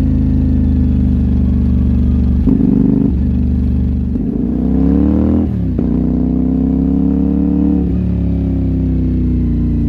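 CFMoto 450NK's parallel-twin engine under way, its revs climbing steadily and then dropping sharply about halfway through, before pulling up again and easing off near the end.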